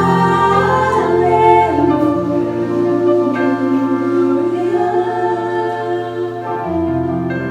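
Choir singing a Christmas hymn with instrumental accompaniment, holding long chords that change a few times.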